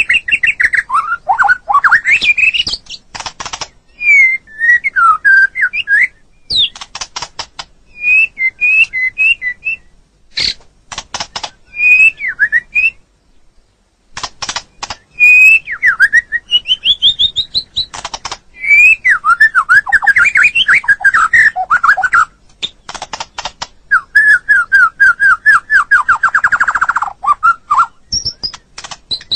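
White-rumped shama (murai batu) singing a long, varied song: clear whistled phrases that glide up and down, broken by fast dry rattling chatter, with a rapid trill about 26 seconds in and short pauses between phrases.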